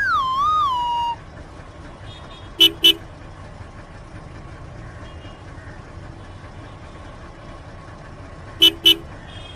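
A horn sound effect giving two quick beeps, then another two near the end, over a low background hum. Before the first beeps, a wobbling whistle tone falls in pitch and stops about a second in.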